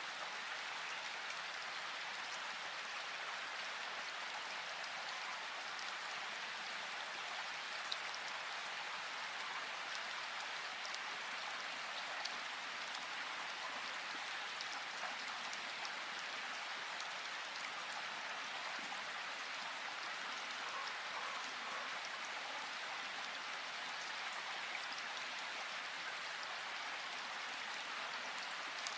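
Steady rush of flowing river water, an even hiss with a few faint sharp ticks standing out now and then.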